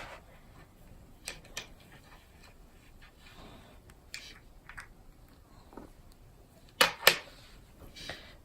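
Scattered sharp clicks and taps of markers and marker caps on a tabletop, with faint scratching in between. The loudest is a quick double click about seven seconds in.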